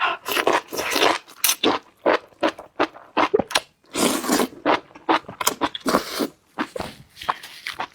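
Close-miked eating for a mukbang: a dense, irregular run of crunchy bites and chewing.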